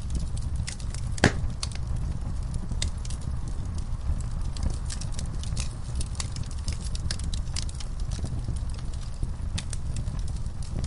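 Campfire crackling: irregular sharp pops and snaps over a steady low rumble of burning wood, with one loud pop about a second in.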